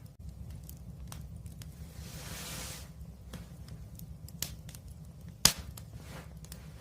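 Wood fire burning with a low steady rumble and scattered crackles and pops, a short hiss of escaping gas about two seconds in, and one loud sharp pop about five and a half seconds in.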